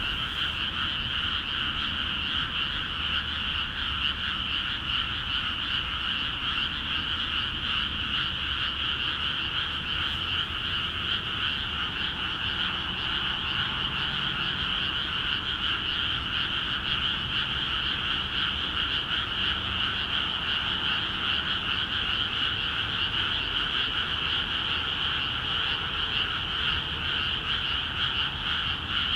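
A dense, steady chorus of many frogs calling together in flooded rice paddies, the calls overlapping into a continuous din with no pauses.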